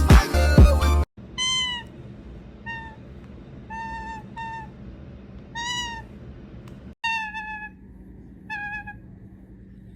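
Pet toucan calling: about seven short, pitched mewing calls, irregularly spaced, after a snippet of music that cuts off about a second in.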